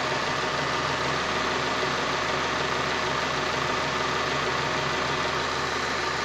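Honda Prelude engine idling steadily with a constant whine and grinding noise.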